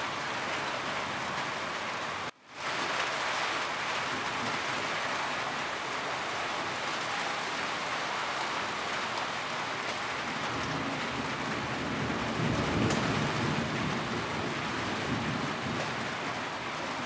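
Steady, heavy rain pattering on a roof. The sound cuts out for a moment about two seconds in and swells back, and a low rumble builds in the second half.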